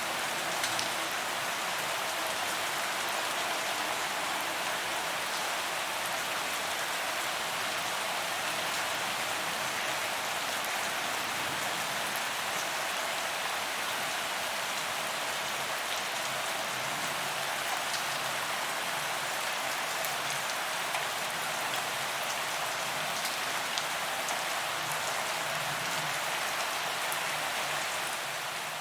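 Steady heavy rain falling on a paved walkway, an even hiss of drops striking the ground with scattered sharper drop impacts.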